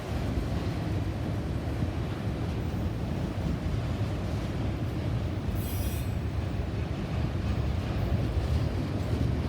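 A train rolling past with a steady low rumble of wheels on rail, and a brief high-pitched wheel squeal about five and a half seconds in.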